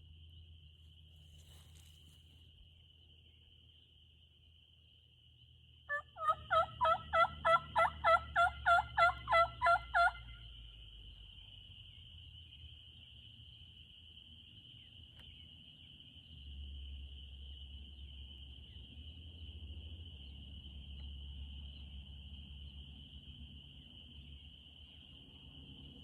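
A run of about a dozen turkey yelps, evenly spaced at roughly three a second and each dropping in pitch, starting about six seconds in and stopping after about four seconds. The kind of yelping series used to locate gobblers.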